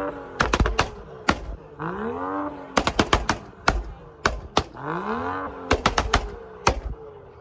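Car engine revved three times, each rev rising and falling in pitch, with loud sharp exhaust pops and crackles in quick clusters after the revs.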